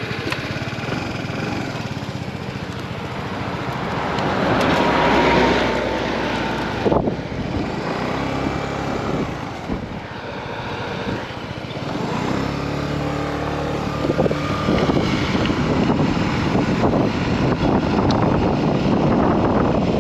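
Motorcycle engine running while riding, with wind rushing over the microphone; the engine note rises and falls, swelling a few seconds in and again in the later part.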